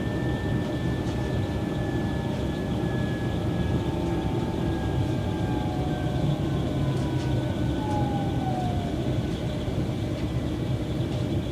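Train running on the rails with a steady low rumble and a whine that slowly falls in pitch over several seconds.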